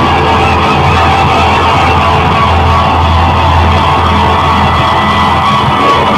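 Rock band playing live, loud, with guitars over a steady low bass.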